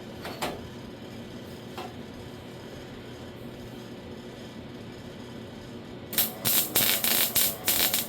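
Welding arc crackling in a quick run of short tack welds, about two seconds near the end, as a steel repair panel is tacked onto a car door. A steady low hum sits underneath, with two faint clicks in the first two seconds.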